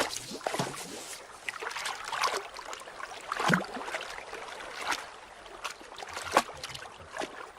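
North American river otters splashing and sloshing in icy water as they play, with a few sharper splashes scattered through.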